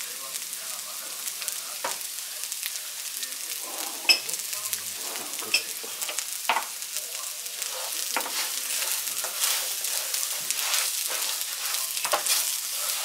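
Raw rice and chopped onion sizzling in oil in a wide paella pan, with a spatula scraping and tapping the pan as it stirs: the rice being toasted until translucent, the first stage of a paella. A few sharper taps come between about four and seven seconds in, and the sizzle grows a little louder after that.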